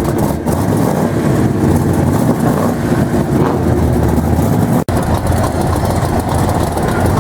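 A vehicle engine running steadily with a low, continuous sound, broken for an instant about five seconds in.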